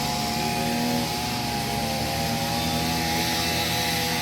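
Petrol brush cutter (grass-cutting machine) engine running steadily at high speed, with a constant pitch throughout.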